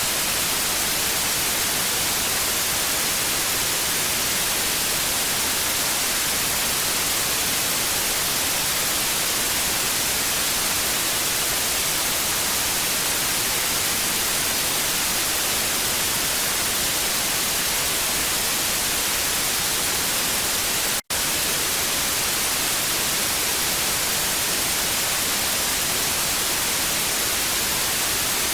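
Television static: a steady, even hiss, brightest in the highs, broken once about 21 seconds in by a split-second dropout.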